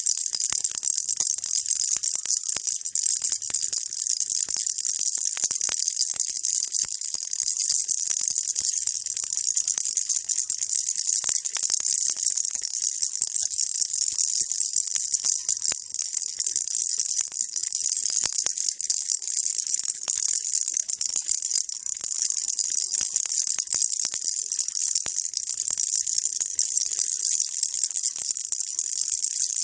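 Baby rattle shaken continuously: a steady, high, fine rattling with no pauses.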